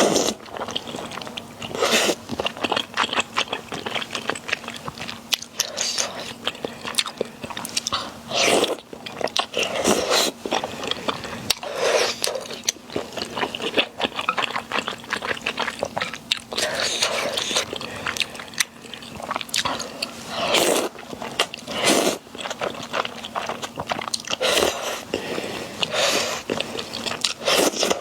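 Close-miked eating sounds: biting and chewing in repeated bursts every second or two, with many small clicks, over a faint steady hum.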